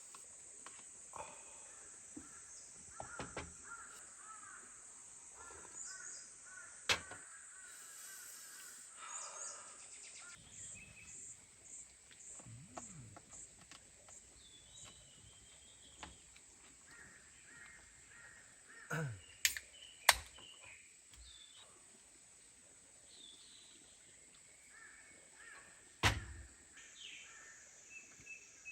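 Forest ambience: birds calling repeatedly over a steady high-pitched hiss, with a few sharp knocks, one about 7 seconds in, two close together around 19 to 20 seconds, and one near 26 seconds.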